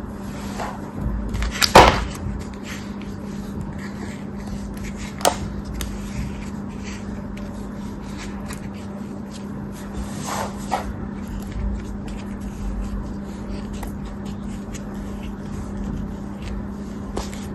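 A knife cutting into soft, crumbly craft material, with many small crackles and a few louder crunches, the loudest about two seconds in. A steady low hum runs underneath.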